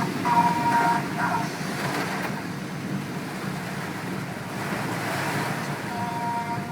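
Steady rushing storm noise that swells slightly about five seconds in, with held musical tones during the first second and again from about six seconds.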